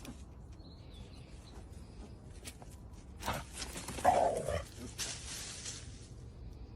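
A short animal call about four seconds in, over faint background noise and a few light knocks.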